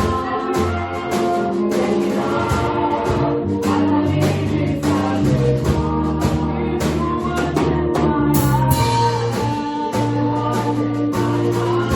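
A gospel choir singing with a band accompaniment that carries a steady beat and sustained bass notes.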